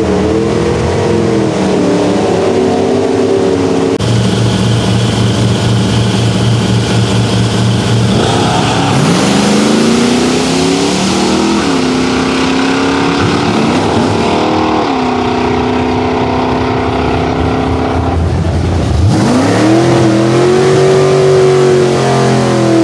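Drag-racing car engines revving hard and accelerating down the strip, the engine note climbing and falling back several times.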